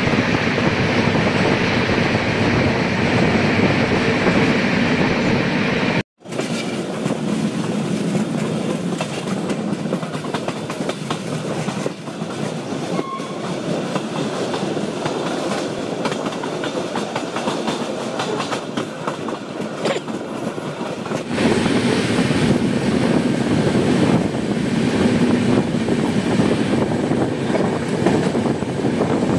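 Express passenger train running along the track, heard from an open coach doorway: steady wheel-and-rail noise with clatter over the rail joints. The sound cuts out abruptly for a moment about six seconds in, and it gets louder and fuller from about two-thirds of the way through.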